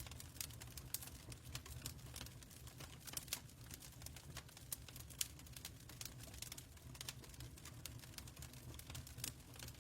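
Fireplace crackling: irregular sharp pops and snaps over a steady low rumble from the fire.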